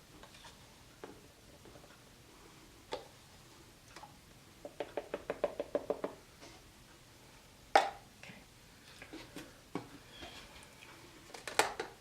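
Light handling taps and knocks of paint cups and a stir stick while acrylic paint is mixed and layered for a pour: a quick even run of about ten taps, then one sharp knock, with a few more clicks near the end.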